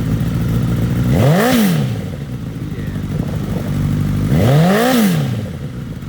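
2011 Honda CBR1000RR superbike's inline-four engine idling and being revved twice, each blip of the throttle rising quickly in pitch and falling back to idle.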